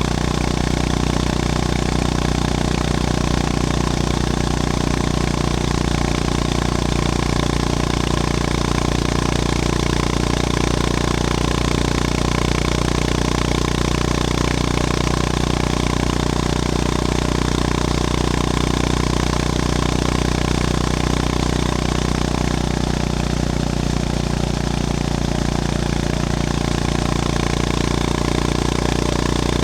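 Honda GB350S's air-cooled single-cylinder engine running at fairly steady revs under way, its note dipping slightly a little over twenty seconds in.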